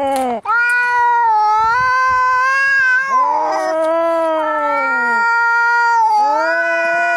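Cats caterwauling in a fight: long, drawn-out yowls of a few seconds each that waver and fall in pitch, one after another, with two voices overlapping in the middle and brief harsh breaks between calls.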